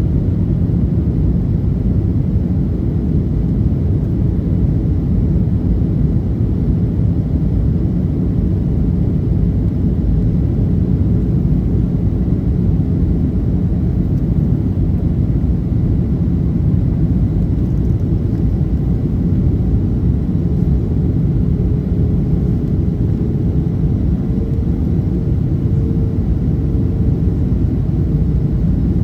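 Cabin noise inside a Boeing 737-800 on approach: a steady low rumble of engines and airflow. A faint steady hum joins it late on.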